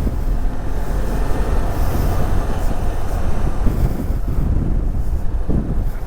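Motorcycle engine running steadily, a loud low rumble with rough wind noise on a helmet-mounted camera microphone.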